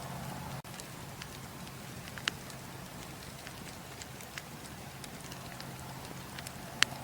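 Campfire burning: a steady hiss with scattered sharp crackles and pops, one loud pop near the end.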